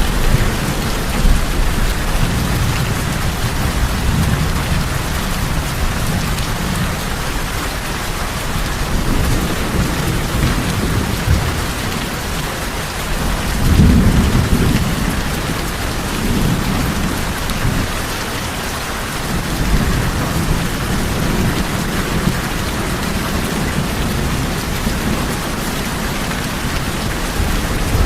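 Rain falling steadily on a tin roof, with thunder rumbling low beneath it; the rumble swells loudest about halfway through.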